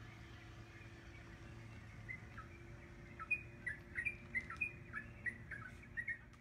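Small birds chirping: a run of short, sharp, falling chirps about three a second, starting about two seconds in and getting louder, over a low steady background rumble. The sound cuts off suddenly at the end.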